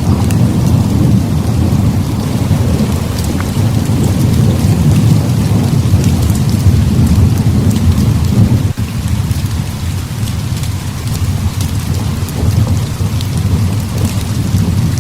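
Heavy rainstorm: steady loud rain with a continuous deep rumble of thunder beneath it and scattered sharp little ticks on top, with a brief dip in level a little past halfway.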